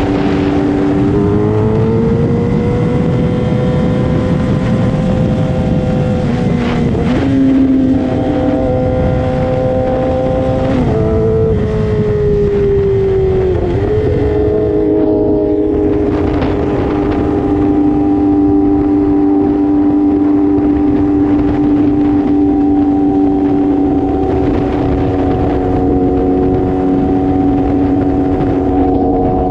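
Sport motorcycle engine at high revs, pulling up through the gears with a sharp drop in pitch at each of three upshifts, then holding a steady high note while cruising.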